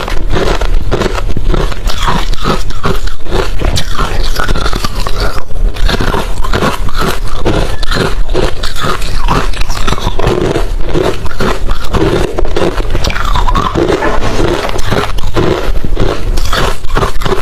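Close-up crunching of hard refrozen crushed ice being bitten and chewed, dense rapid crunches without a break.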